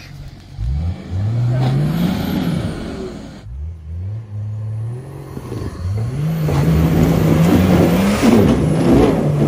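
Off-road 4x4's engine revving hard in three bursts, the pitch climbing with each, the longest near the end.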